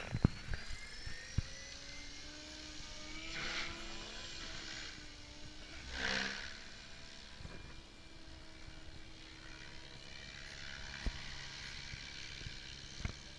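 Goblin 700 radio-controlled helicopter's motor and rotor running, a whine that rises in pitch over the first few seconds and then holds steady. Two brief louder swells of noise come about a third of the way and halfway through.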